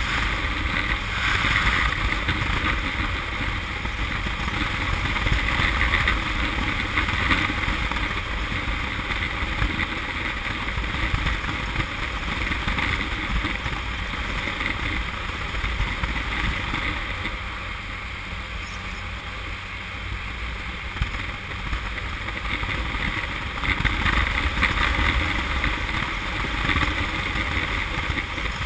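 Honda CM200T's small air-cooled parallel-twin engine running on the road under way, mixed with rushing wind on the camera microphone; it dips quieter for a few seconds past the middle, then picks up again. The engine is running rough and popping, which the owner traced to a nearly flat 6-volt battery.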